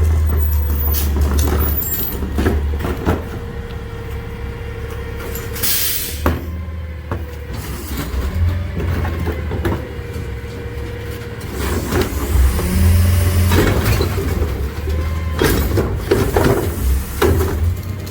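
McNeilus rear loader garbage truck on a Freightliner chassis running while packing, its engine rumbling with a steady hydraulic whine from the packer. A short hiss of air about six seconds in, with knocks and clanks throughout.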